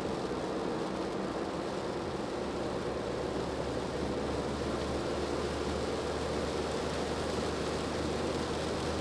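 Steady car cabin noise while driving: a low engine hum under the hiss of tyres on a wet road, heard from inside the car.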